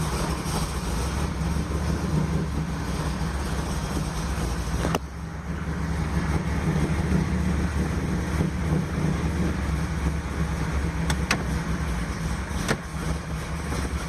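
LT4 V8 running on E85, idling low at about 600 RPM just after a cold start, with a steady, even note. A sharp click sounds about five seconds in, and a few fainter clicks come near the end.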